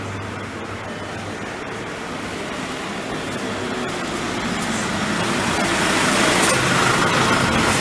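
A road vehicle approaching, its running noise growing steadily louder and loudest near the end.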